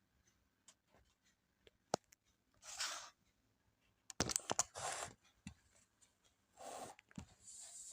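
Hand-work noises on small hard parts: scattered sharp clicks and several short rustling or scraping bursts, the busiest about four to five seconds in.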